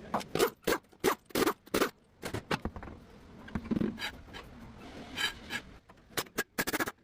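Irregular scrapes and knocks, a dozen or so in quick succession, from brake parts being handled and worked on during a rear brake pad and rotor change.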